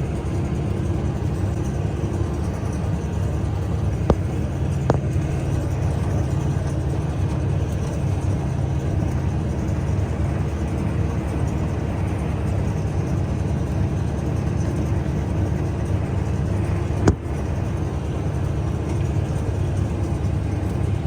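Tractor engine running steadily at working speed, a low, even rumble, with three sharp clicks or knocks, two of them close together about four seconds in and one late on.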